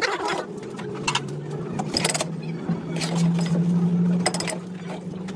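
A machine motor running with a steady hum that shifts slightly in pitch partway through, with repeated metallic clinks and knocks over it.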